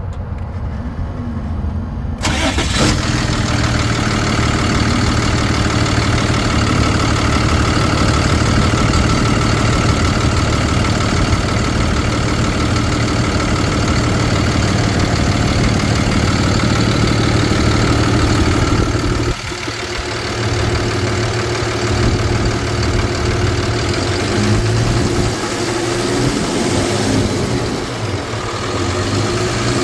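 The 6.7-litre Cummins turbo diesel of a 2013 Ford F-750 starts up about two seconds in, then idles steadily. A little past halfway the sound briefly dips and changes, then carries on idling.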